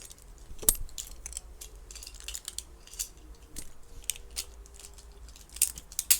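Light plastic clicking and clacking from Beyblade tops and parts: many irregular sharp clicks, with a faint steady hum for a couple of seconds in the middle.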